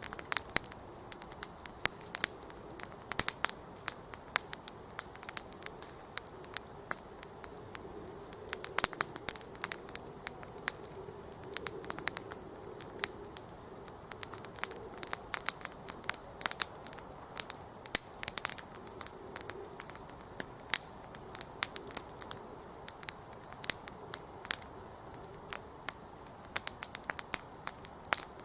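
Wood campfire crackling: irregular sharp pops and snaps of burning wood, some much louder than others, over a steady soft rush of the flames.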